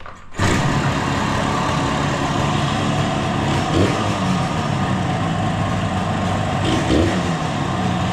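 1972 Yamaha DS7's air-cooled two-stroke parallel-twin engine running steadily, coming in sharply about half a second in, with two brief surges about four and seven seconds in.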